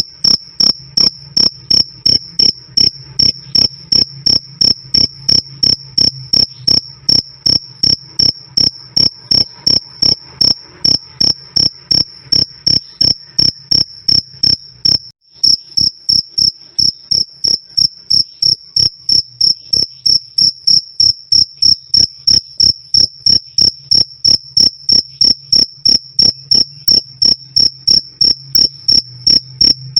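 Cricket chirping loud and clear: a steady run of short high-pitched chirps, about three a second, with a momentary gap about halfway through.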